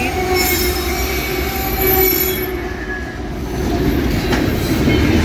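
Loaded coal train with mid-train GE diesel locomotives rolling past: a steady low rumble of wheels and cars with thin, high-pitched wheel squeals over it, easing off about halfway through.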